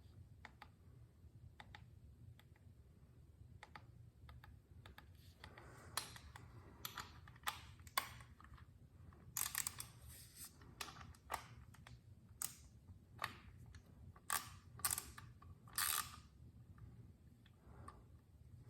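Faint, irregular clicks and short rattles of a torque wrench being adjusted, its handle turned to set it to 17.5 foot-pounds. They come in a scattered run from about a third of the way in until shortly before the end, over a low steady hum.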